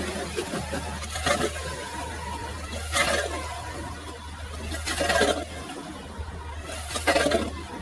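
Power ice auger running steadily as it drills a hole through the lake ice, with a loud scraping rush about every two seconds.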